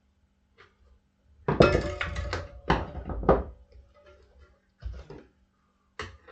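Steel tire irons clanking against a dirt bike's wheel rim and bead lock while the tire is levered on: a quick run of ringing metal knocks about a second and a half in, then a few lighter knocks near the end.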